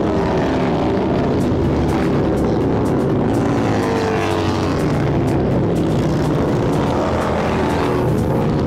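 Car engines running steadily, the engine note rising and falling slightly in pitch.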